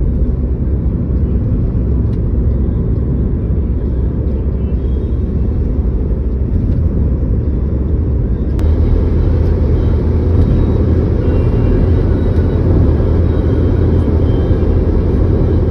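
Car driving on the road: a steady, loud low rumble of engine and road noise. A single click comes about halfway through, after which the rumble is slightly louder.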